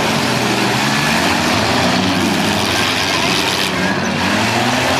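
Several demolition derby cars' engines running and revving at once, over a steady loud wash of noise.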